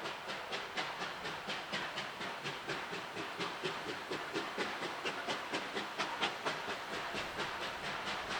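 Texas State Railroad No. 30 steam locomotive working at speed, its exhaust chuffing in a fast, even beat of about four to five chuffs a second.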